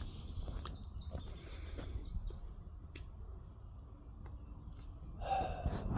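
Low rumble of wind on the microphone with faint rustling and scattered clicks, like footsteps through overgrown brush. A brief, louder sound comes near the end.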